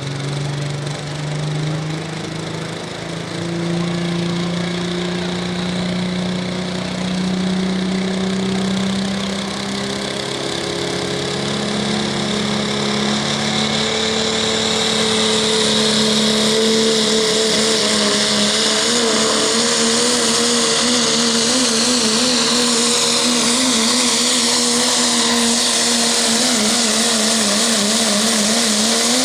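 Turbocharged diesel pulling truck at full throttle dragging the sled. The engine note climbs in steps, then holds high with a wavering pitch, and a high turbo whine builds over the second half.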